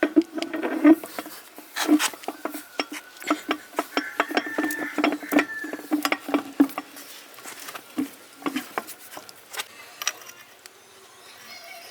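Irregular metallic clicks, taps and knocks of hand tools and small metal parts being handled, coming thick and fast and thinning out near the end.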